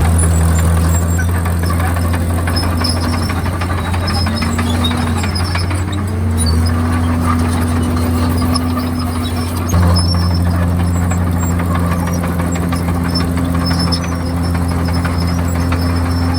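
Komatsu D51PX bulldozer's diesel engine running under load, a steady low drone whose pitch dips and recovers several times as the work loads it.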